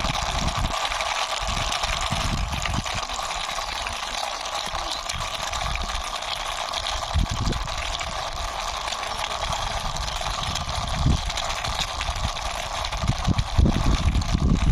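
A small plastic toy vehicle pushed by hand across a surface, its wheels rolling with irregular low rumbles and a few soft knocks, over a steady rushing background hiss.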